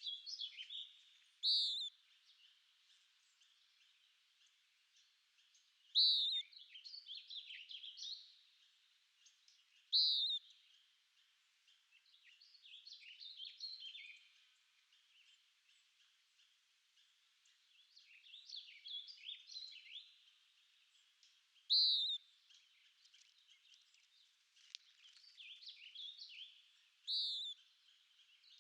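Songbirds singing: a short, loud, sharp note every few seconds, with busier, quieter warbling phrases in between.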